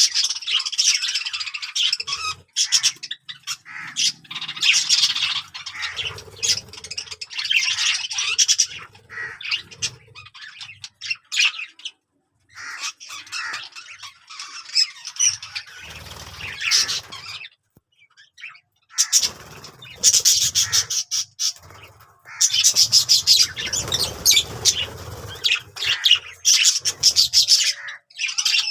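Budgerigars chattering and warbling: rapid strings of high chirps and squawks, in bursts of a few seconds with short lulls between.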